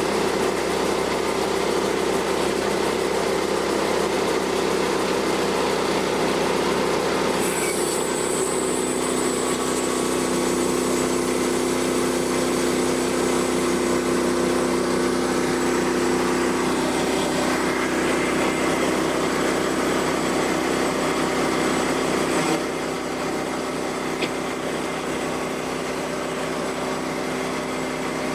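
Portable sawmill's small engine running steadily at idle, with a constant hum; it drops a little quieter about 22 seconds in.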